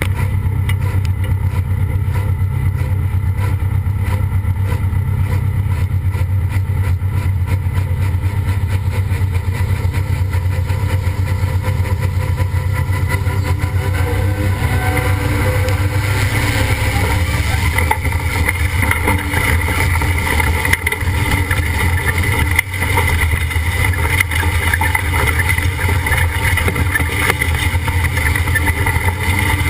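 Pulling tractor's engine running hard and steady through a pull, with a strong low drone. From about halfway through, a higher, harsher edge and wavering tones grow in over the drone.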